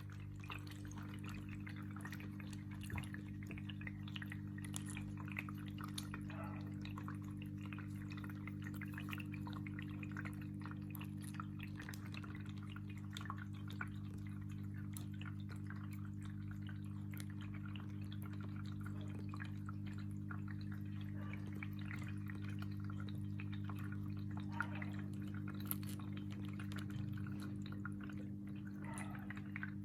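Parrotlets bathing, with small splashes and drips of water throughout and a few faint chirps, over a steady low hum.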